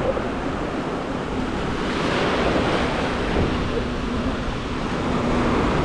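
Sea surf washing around the shallows, with wind rumbling on the microphone; the wash grows brighter about two seconds in.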